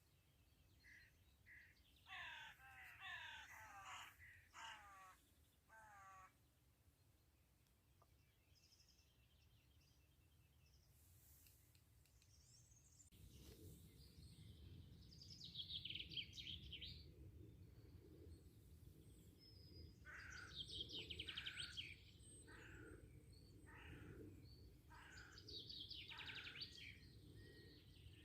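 Birds calling: a quick run of about five harsh, falling calls a few seconds in, then later several bursts of higher, rapid calls over a low steady rushing noise that comes in about halfway.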